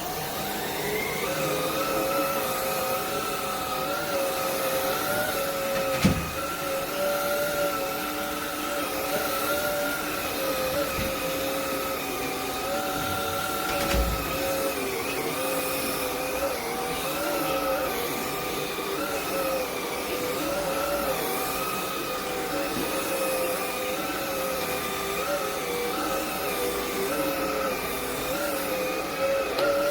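Shark cordless stick vacuum running, a steady motor whine whose pitch wavers slightly as the load changes while it cleans. There are a couple of short knocks, about 6 and 14 seconds in.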